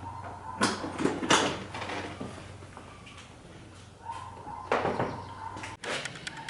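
Several sharp knocks and clatters, as of parts or tools being handled at a motorcycle, in two clusters: a little after the start and again near the end.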